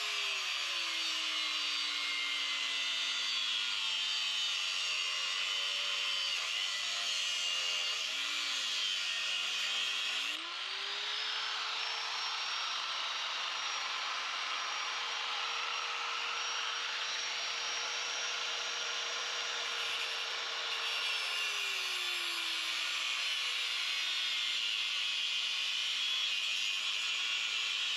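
A small engine, most likely the riding lawn mower's, running steadily, its pitch sagging and recovering as the load changes, over a hiss of cutting and blade noise.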